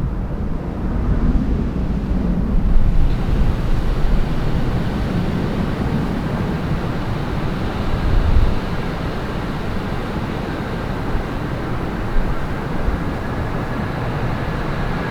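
Jet airliner engines running, a steady rush that brightens after about three seconds and picks up a faint high whine in the last few seconds, under strong gusty wind buffeting the microphone.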